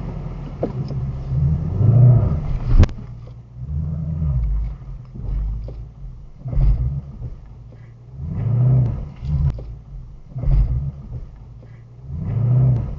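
Low rumble from the 2018 Shelby GT350, swelling and fading every couple of seconds. A single sharp click comes about three seconds in.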